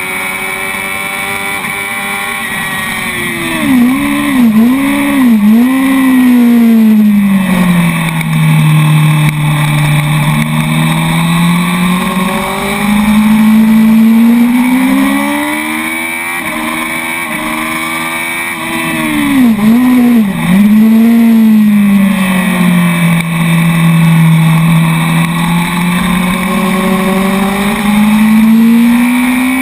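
Honda sport bike's inline-four engine at racing revs. It holds high revs, then the rider brakes hard with a quick run of three downshifts, each a sharp jump in revs. The engine runs low through the corner and then revs back up under acceleration. The same brake, downshift and accelerate sequence comes again about two-thirds of the way in.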